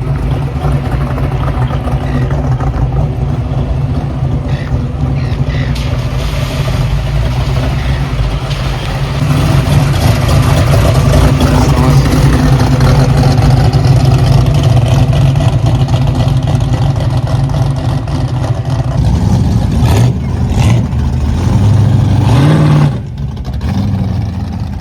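Car engine running with a deep, steady low drone that grows louder about nine seconds in. Near the end it revs up, rising in pitch, then drops off suddenly.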